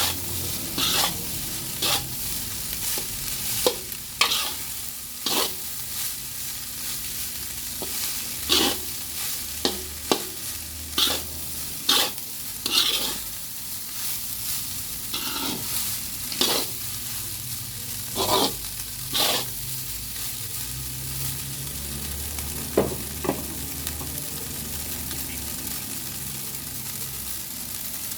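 Vegetable fried rice with tofu sizzling in a hot pan as it is stirred. A spatula scrapes and knocks against the pan at irregular intervals, roughly once a second, with fewer knocks in the last several seconds.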